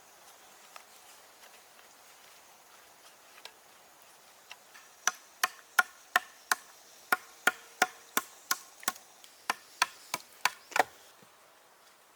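A hand tool striking wood in a steady series of about sixteen sharp knocks, roughly three a second with a couple of brief pauses, starting near the middle and stopping about a second before the end; a few faint ticks come before.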